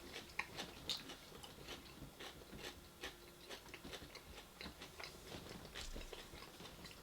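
Faint, close-up chewing and biting of food, with many small irregular wet clicks and crunches.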